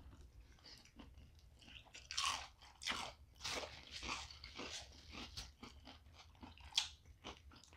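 Faint, irregular crunching and chewing of a mouthful of burger, busiest from about two to five seconds in, with a sharp click near the end.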